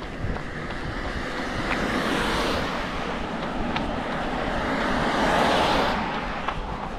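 Car passing on a wet road: its tyre noise rises, swells again to its loudest about five and a half seconds in, then drops away suddenly. Footsteps tick faintly underneath.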